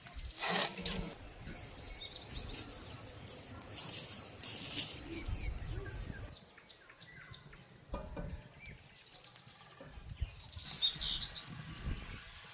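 Birds chirping, with a loud quick run of short falling chirps near the end, over scattered rustling and fluttering noises.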